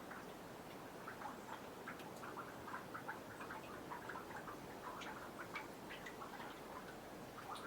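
Meltwater dripping from snow on a boardwalk into a nearly frozen pond: many small, irregular plinks, several a second, over a faint steady hiss.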